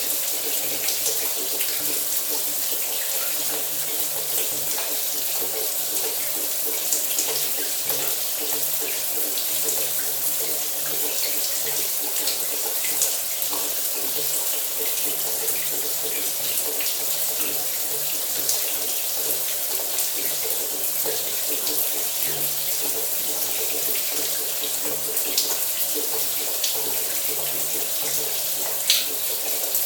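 Shower running steadily: an even hiss of water spray splashing, with scattered sharper splash ticks, the most distinct near the end.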